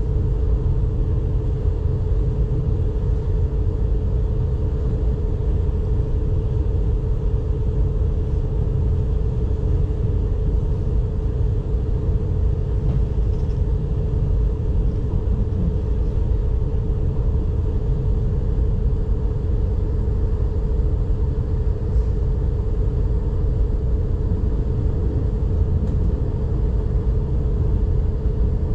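S-Bahn commuter train running at speed, heard from inside the passenger car: a steady low rumble of wheels on track with a constant mid-pitched hum over it.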